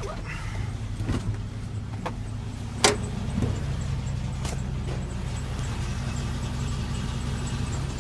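Truck engine idling steadily just after a cold start, with a few sharp clicks and knocks over it, the loudest about three seconds in.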